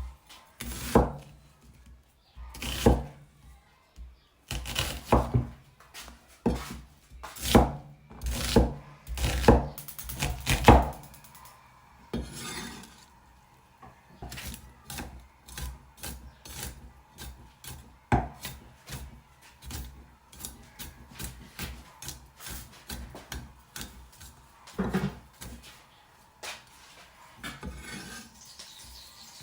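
Knife chopping on a wooden cutting board in irregular strokes, heavy and frequent for about the first ten seconds, then lighter and sparser.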